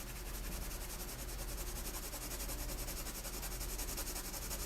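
Quiet room tone: a steady low electrical hum under faint hiss.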